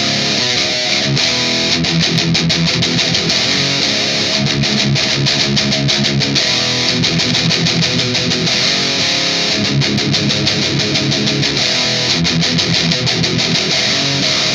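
Overdriven electric guitar playing a riff of fast repeated low notes.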